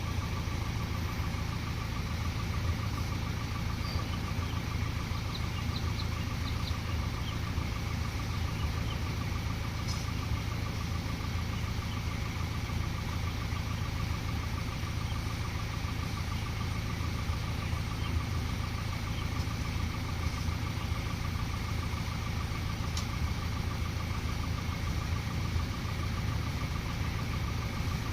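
Heavy diesel engine idling steadily, with a constant low drone and a faint steady high whine above it, with no revving.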